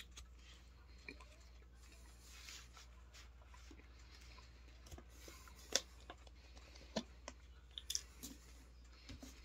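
A person chewing a mouthful of beef and steamed vegetables, quietly. A few sharp clicks and taps come in the second half, the last of them as a plastic water bottle is picked up.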